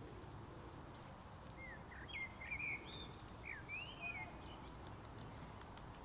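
A songbird singing a run of short, varied whistled phrases that rise and fall in pitch, from about a second and a half in until about five seconds in, over steady low background noise.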